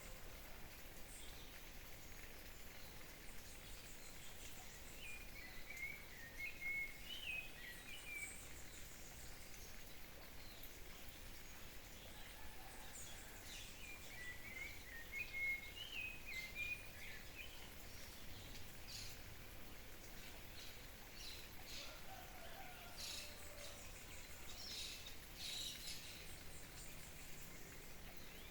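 Wild birds singing: two warbling phrases a few seconds apart, then a run of short, high chirps near the end, over a steady background hiss.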